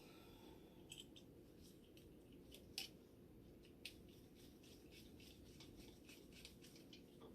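Faint, scattered clicks and scrapes of small parts being handled and fitted, with one sharper click near the middle, over a low steady hum.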